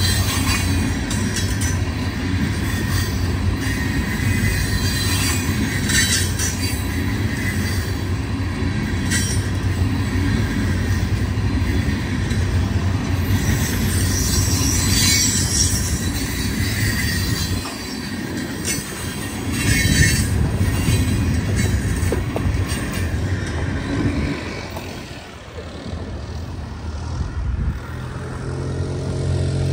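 Freight train of tank cars rolling past: a steady rumble of wheels on rail, with brief high-pitched wheel squeals now and then.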